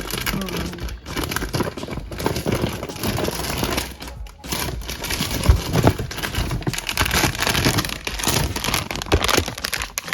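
Close-up crinkling and rustling of plastic with many quick irregular clicks and snaps, as phone cases are handled and swapped on a phone.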